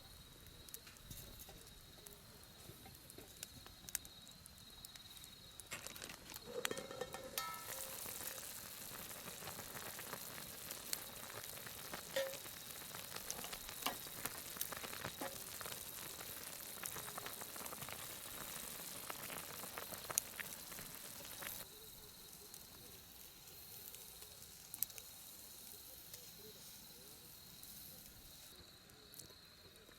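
Wood campfire crackling with scattered sharp pops, and a steady sizzling hiss from about seven seconds in that cuts off about three quarters of the way through.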